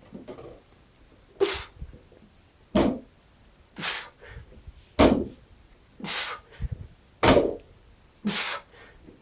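A man breathing hard and forcefully from the exertion of heavy barbell clean pulls: sharp, loud exhales and gasps about once a second, some stronger than others.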